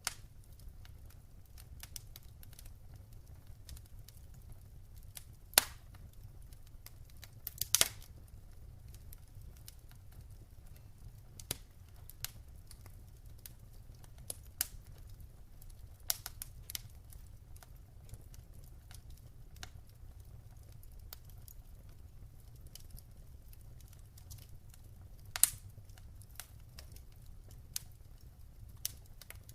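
Wood fire crackling in a fireplace: irregular small snaps throughout, with three loud pops standing out, over a low steady rumble.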